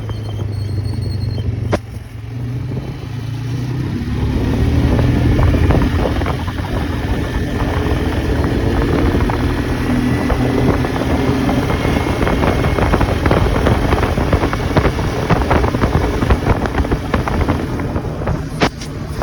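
Four-wheeler (ATV) engine running while riding. It picks up revs about three to five seconds in, then holds steady.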